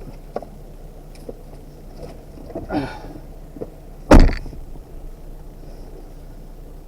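An off-road vehicle's engine running low and steady, with scattered knocks and one loud thump about four seconds in.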